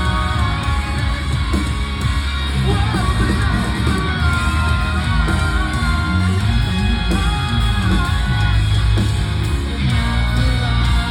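Post-hardcore band playing live, loud and continuous: electric guitars, bass and drums with a singer's voice, partly sung and partly yelled.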